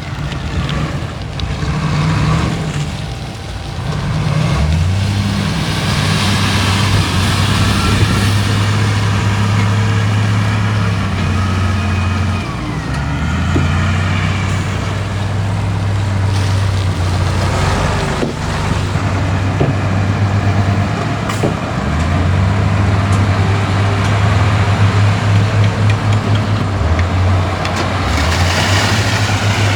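Heavy diesel earthmoving machinery working, its low engine note rising and falling with the load every few seconds.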